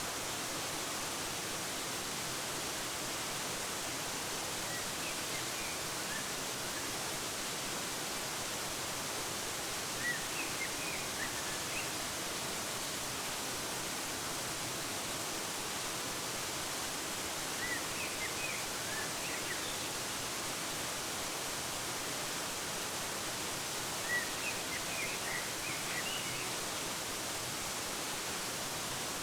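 Steady hiss of a waterfall, with small birds chirping briefly four times, in short clusters of quick notes.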